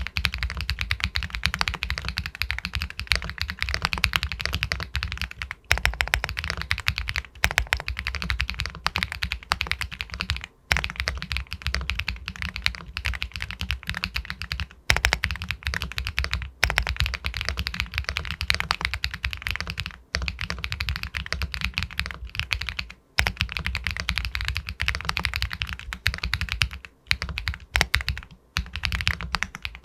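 Fast, continuous typing on an Epomaker Galaxy 80 Pro all-aluminium mechanical keyboard with White Jade linear switches, a pebble-like clacking of keystrokes broken by a few brief pauses.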